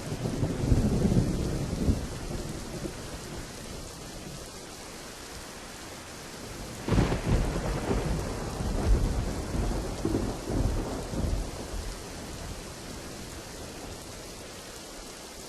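Steady rain with two peals of thunder: a rumble in the first couple of seconds, then a sudden crack about seven seconds in that rumbles on for several seconds before fading back to the rain.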